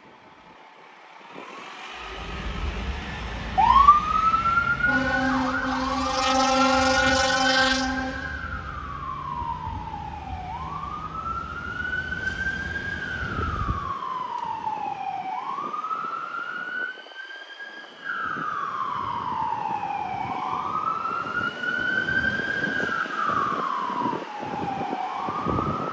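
Fire apparatus responding with its siren wailing up and down, about one rise and fall every two and a half seconds. A heavy engine rumble builds early on and fades out a little past the middle. A steady horn blast sounds for about three seconds near the start of the siren.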